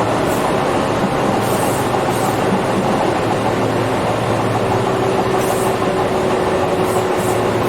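Tobu 8000 series electric train running, heard from inside the car: a steady rumble of wheels on rail, with a steady hum coming in about halfway through.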